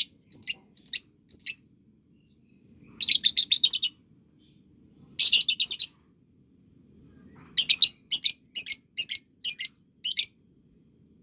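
Lovebird calling: series of short, sharp, high chirps at about three a second, twice broken by a quick rattling trill, the first about a second long and the second shorter, with silent gaps between.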